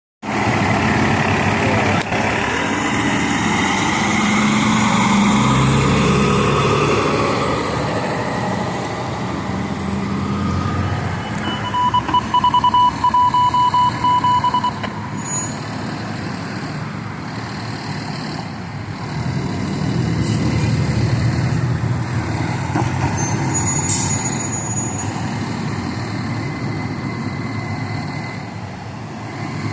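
Fire trucks' diesel engines running as the apparatus drive past, their drone rising and falling. For about three seconds near the middle, a loud, rapidly pulsing electronic beep sounds.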